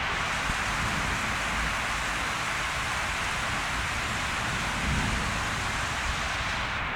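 Steady rain falling, an even hiss, with a low rumble underneath that swells briefly about five seconds in.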